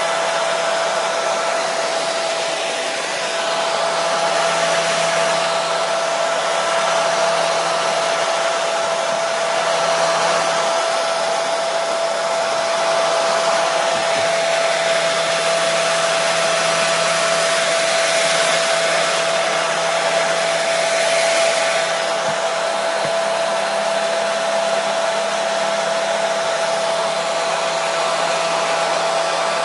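Hair dryer running steadily: a constant rushing blow of air with a steady motor whine.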